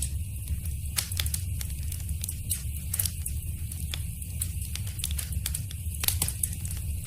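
Wood fire in a fireplace crackling: irregular sharp pops and snaps, a few louder ones, over a steady low rumble of the flames.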